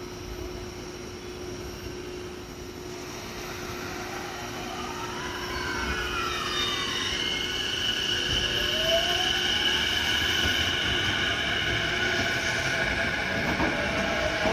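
Electric commuter train approaching through a station, its running noise building steadily. From about six seconds in, a whine glides down and then rises in pitch, with a steady high tone over it.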